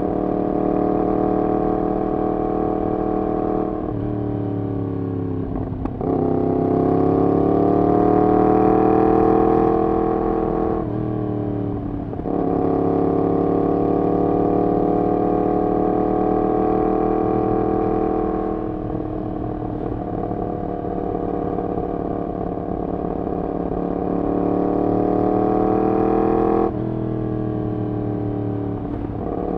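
Yamaha MT-10's crossplane inline-four running through a decat full exhaust system while riding, pulling up through the gears with the pitch dropping back at each of several gear changes.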